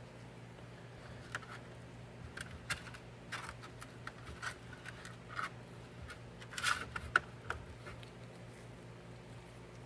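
Small metal parts of a bicycle brake hub being handled and greased: a scattering of light clicks and scrapes, with one sharper click near the end, over a steady low hum.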